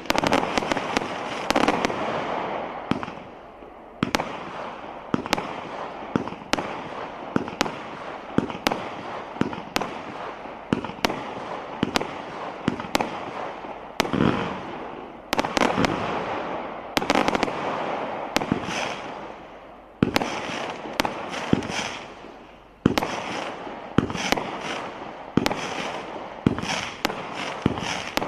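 Display firework cakes and barrages firing continuously: sharp shot after shot about every half second to second, over a dense noisy wash that swells and fades.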